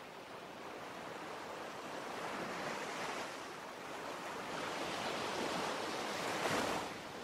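Ocean waves washing in, slow swells of surf that build and fall back, the largest cresting near the end.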